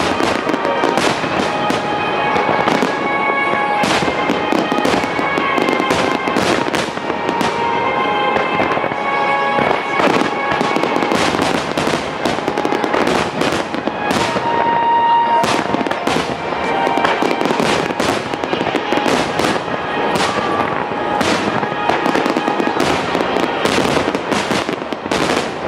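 Japanese starmine fireworks barrage: many shells bursting in rapid, overlapping succession with crackling. Music plays alongside.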